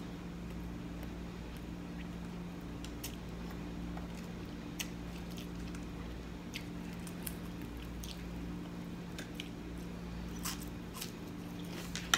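Quiet chewing, with occasional light clicks of a spoon and fork against a plate, over a steady low hum.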